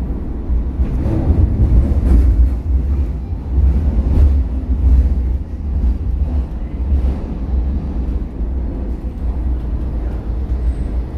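Subway train running, heard from inside the car: a loud, steady low rumble with wheel and track noise and scattered knocks.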